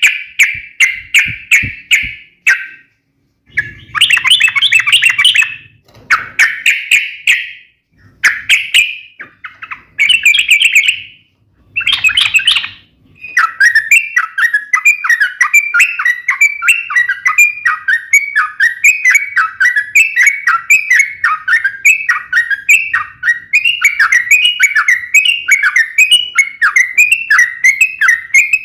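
Yellow-vented bulbul (trucuk) singing a sharp, rapid chattering song, the fast 'fighting' style. It comes in short bursts with pauses in the first half, then runs on without a break, repeating quick phrases about twice a second.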